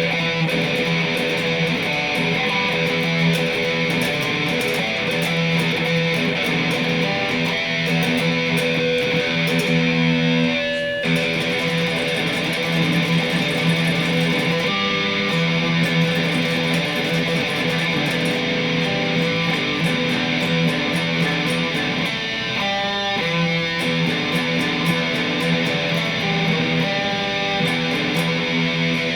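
Electric guitar playing practice riffs, with notes and chords ringing out and short breaks about 11 and 23 seconds in.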